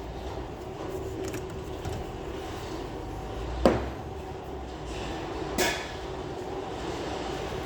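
Two sharp knocks of parts or tools being handled during an engine-bay strip-down, the first louder and the second about two seconds later, over a steady low hum.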